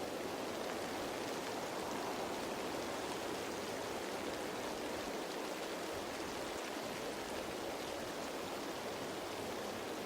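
Steady light rain pattering on leaves, an even hiss with no change in level.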